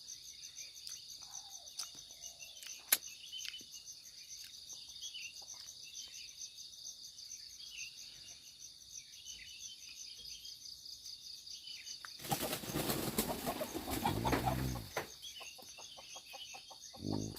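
Chicken flapping its wings hard for about three seconds near the end, mixed with a falling squawk, with a short cluck just after. Insects chirr steadily throughout.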